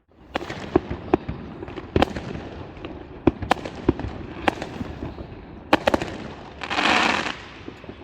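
Fireworks going off: sharp bangs and pops at irregular intervals, with a louder rushing noise near the end.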